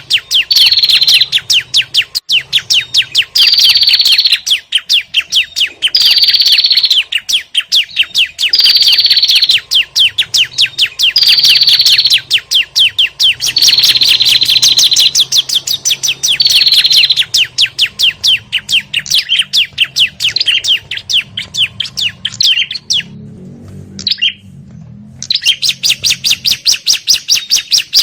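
Bird-lure recording of prenjak and ciblek (bar-winged prinia) in their noisy, agitated calls: fast runs of sharp chirps with a brighter note about every two and a half seconds, repeating like a loop. Near the end the calling stops for about two seconds.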